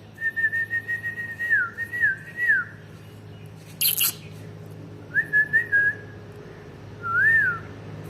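Green Indian ringneck parrot whistling: a long wavering whistle with quick downward flicks at the end, then a shorter whistle and a single rising-and-falling note, broken by one short harsh burst about four seconds in.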